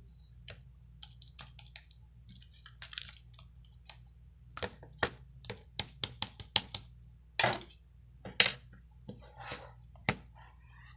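A string of irregular sharp clicks and taps, sparse at first, then coming quickly and louder in the middle, with a couple of longer scuffing sounds among them.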